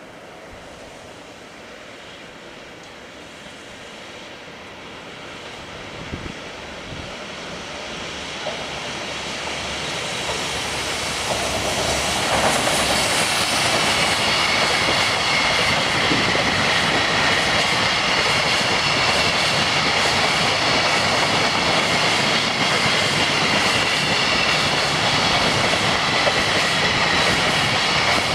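Freight train hauled by an EF210 electric locomotive approaching and running past, growing louder over about twelve seconds and then holding a loud, steady rolling noise of the wagons with a few high steady tones above it.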